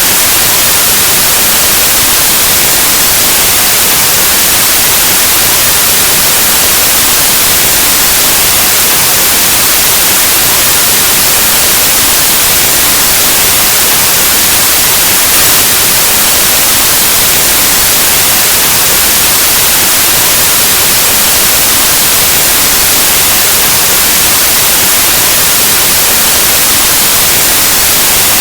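Continuous white noise: a steady, loud, even hiss with no changes, like analog TV static.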